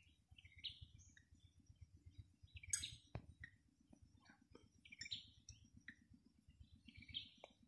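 Faint, scattered chirps of small birds, the loudest a sharp call about three seconds in, over a faint low rumble.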